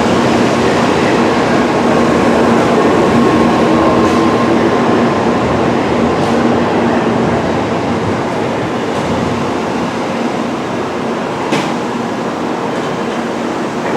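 Tokaido Shinkansen train moving through the station: a loud, steady rumble of wheels and running gear with a motor hum, easing off slowly in the second half.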